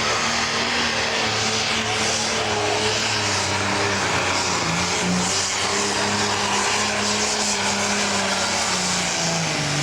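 Pro stock pulling tractor, a modified International 1066 with a turbocharged diesel, running flat out under load as it pulls the sled down the track. The loud, steady engine note dips slightly near the end.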